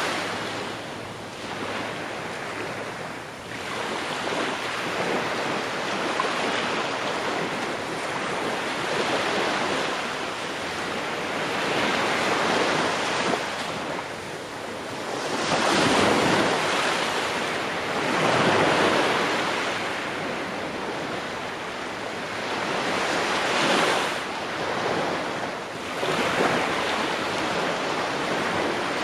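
Ocean waves breaking on a shore, a continuous rush of surf that swells and recedes every few seconds, with the strongest surges about halfway through and again near the end.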